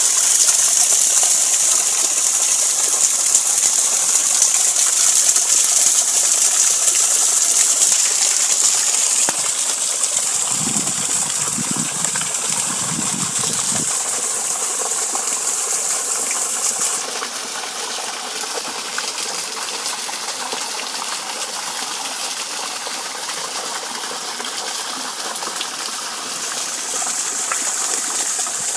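Running water with a steady rushing and splashing sound; it drops in level about 9 seconds in and again about 17 seconds in, with a brief low rumble around 11 to 13 seconds.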